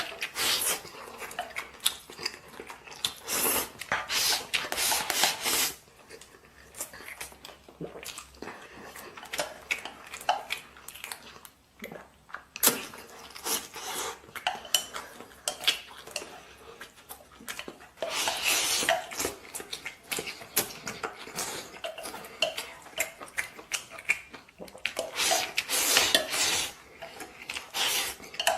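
Eating braised pork over rice: a spoon clinking and scraping against a bowl in irregular clusters, with chewing between mouthfuls.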